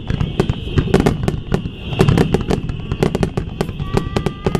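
Fireworks bursting in quick succession: sharp bangs and crackles several times a second over low booms. A thin rising whistle starts near the end.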